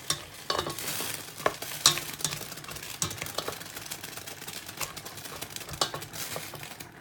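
A spoon stirring thick, starchy okra in a cooking pot, with irregular scrapes and knocks of the spoon against the pot.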